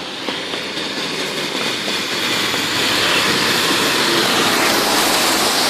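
Heavy rain pouring down: a steady, dense hiss that grows louder over the first few seconds, then holds.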